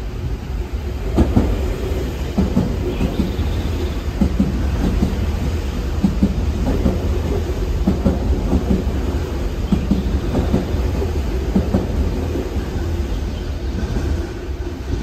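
Nankai electric commuter train running through the station at speed without stopping: a steady rumble with repeated clacks of the wheels over the rail joints as the cars go by.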